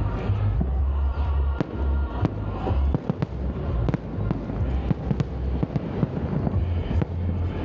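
Fireworks salute shells bursting: an irregular series of sharp bangs over a continuous low booming rumble.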